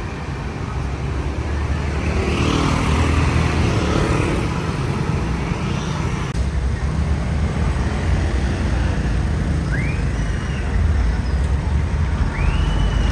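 Road traffic with a steady low rumble, and one vehicle passing louder about two to four seconds in. Two short high chirps come near the end.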